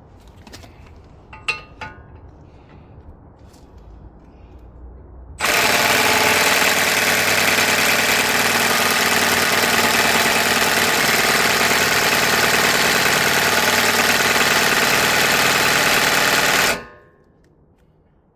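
Impact wrench hammering continuously for about eleven seconds, starting a few seconds in and cutting off sharply, on a stubborn fastener during removal of a front wheel hub assembly. A couple of light metal knocks come before it.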